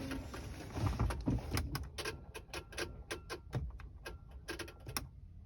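Rapid, irregular clicking, about three to four clicks a second, from the electrical relays of a Renault truck that will not start. The relay chatter goes with the truck's electrical fault, which the owner traces to relays K14 and K20.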